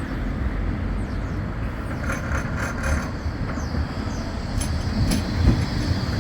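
Bombardier Flexity 2 tram running along the track: a steady low rumble with a few light clicks from the wheels on the rails.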